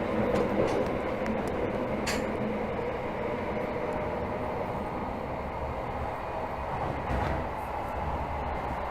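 Tokyo Metro Hibiya Line 13000 series train running between stations, heard from inside the car: a steady rumble of wheels on rail with steady motor tones over it. A brief click comes about two seconds in, and a short swell in the rumble about seven seconds in.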